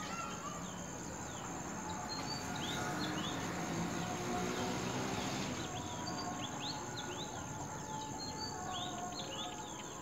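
Many short, quick bird chirps, more of them in the second half, over a steady high-pitched ringing drone. A soft rush of noise swells up in the middle.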